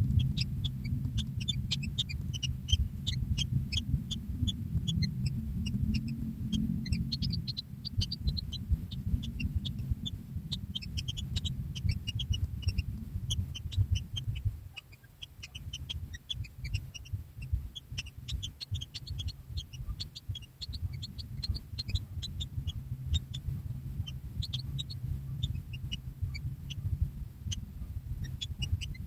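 Newly hatched kingfisher chicks peeping in a ground nest burrow: many short, high chirps in quick, irregular runs. A loud low rumble sits under them and briefly dips about halfway through.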